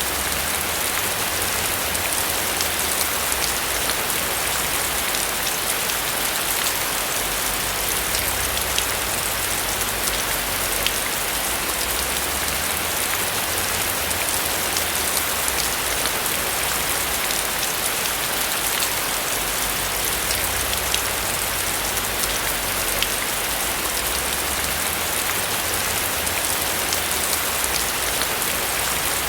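Steady rain falling on a roof, an even hiss with scattered individual drop ticks and a low rumble underneath.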